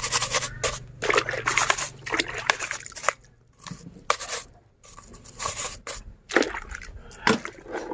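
Water sloshing and splashing in short, irregular bursts as a toy is washed by hand.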